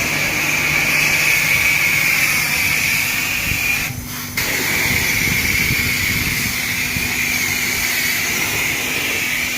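Self-serve car wash high-pressure spray wand spraying in a steady hiss. The spray stops for about half a second around four seconds in, then resumes.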